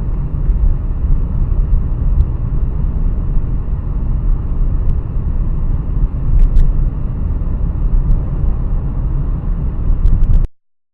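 Steady low rumble of a moving vehicle's engine and road noise, recorded by a dash cam, with a few faint clicks. It cuts off abruptly near the end.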